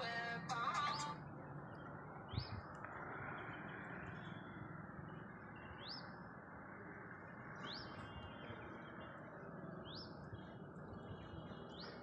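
A bird repeating a short, quickly rising chirp about every two seconds over faint outdoor background noise, with a single soft bump about two seconds in.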